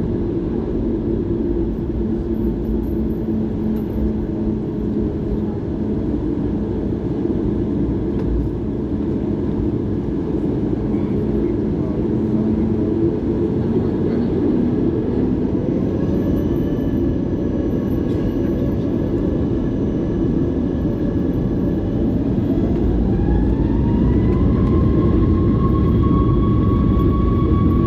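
Boeing 737 jet engines heard from inside the cabin: a steady low rumble, then about 22 seconds in a whine rises in pitch and holds as the engines spool up to take-off power, the sound growing louder near the end.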